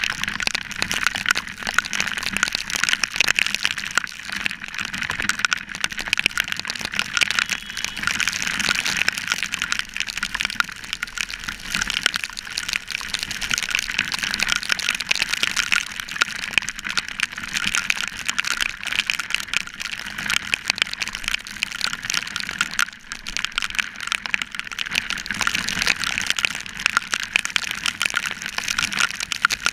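Heavy rain striking the camera on a moving motorcycle: a dense, steady crackling patter of drops, with a faint low hum underneath.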